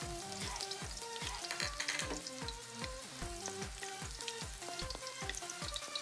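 Minced garlic sizzling in hot oil in a metal pan, stirred with a wooden spatula. Background music with a steady electronic beat and melody plays over it.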